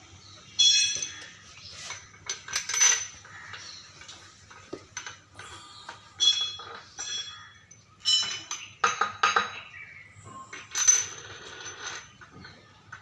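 Metal tools and engine parts clinking and clanking against one another in a series of sharp, ringing knocks, the loudest about half a second in, near 3 s, around 9 s and near 11 s.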